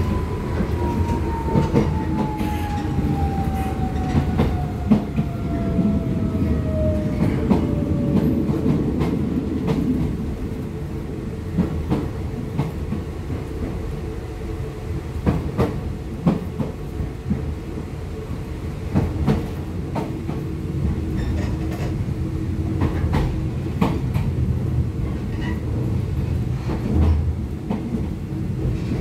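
Running sound inside a Nishitetsu 600 series electric train car: a steady rumble with irregular rail-joint clicks. A thin whine slides down in pitch over the first eight seconds or so, and a steady lower hum holds through the later part.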